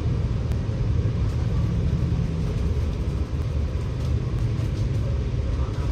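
Scania K94UB bus's diesel engine and running gear heard from inside the bus: a steady low rumble.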